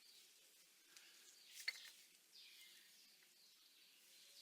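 Near silence: faint room tone, with one faint click about one and a half seconds in.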